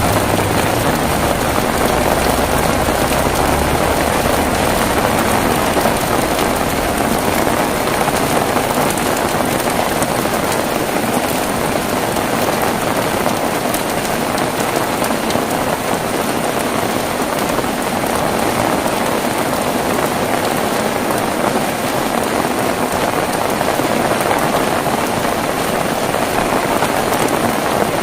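Steady heavy rain falling, a dense even hiss with no let-up. A low rumble underneath fades away over the first several seconds.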